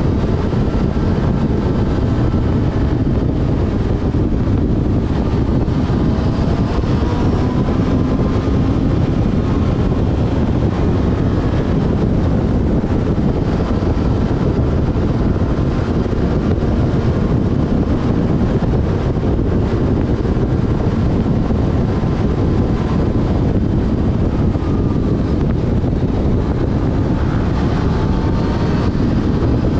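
Yamaha FZ6S Fazer's inline-four engine running at road speed, its pitch drifting gently up and down, under steady wind noise on the microphone.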